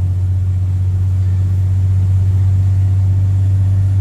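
Straight-piped Cummins C8.3 inline-six diesel of a 1995 Carpenter school bus running with a loud, steady, deep exhaust drone.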